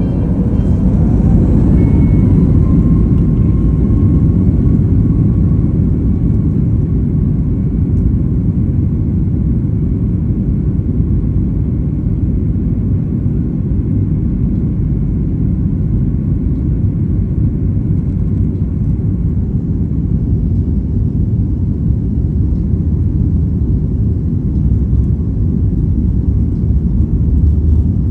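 Airliner's jet engines spooling up for takeoff, a whine rising in pitch over the first few seconds and then holding, over a loud steady rumble through the takeoff run.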